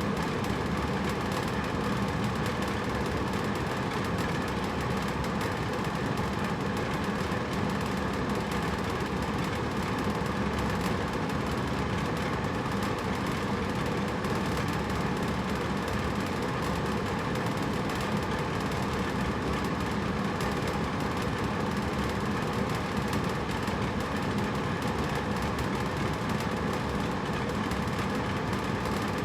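Hotel room air conditioner running with a steady hum and airflow noise.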